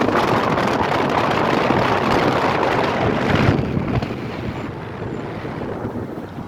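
Wind rushing over the microphone together with road noise from a moving vehicle. It drops off sharply about halfway through as the vehicle slows.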